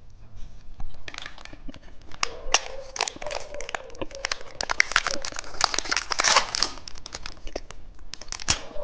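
Candy wrapper crinkling and being torn open: a dense run of crackles and rips starting about a second in.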